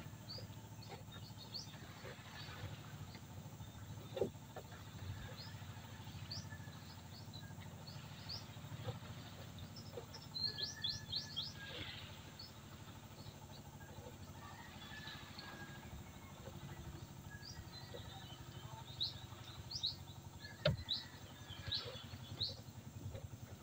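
Small birds chirping in quick clusters of short, high calls, over a steady low background. Two sharp knocks stand out, one about four seconds in and one near the end.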